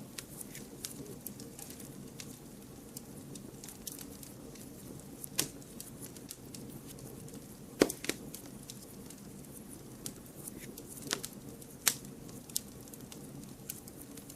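Wood fire burning with a low steady rush of flame and irregular crackles and pops, a few sharper loud pops standing out.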